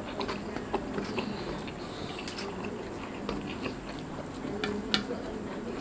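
A man chewing a mouthful of rice close to the microphone, with many small mouth clicks and one sharper click about five seconds in.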